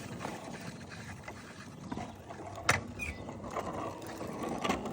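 Steady low rumbling noise of a child's bicycle rolling over cracked pavement, with a sharp click about two and a half seconds in and a fainter one near the end.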